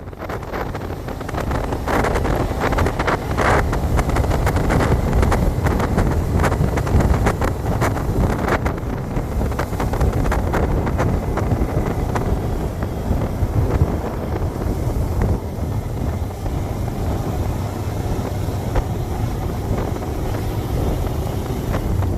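Wind buffeting the microphone: a loud, steady low rumble with scattered crackles.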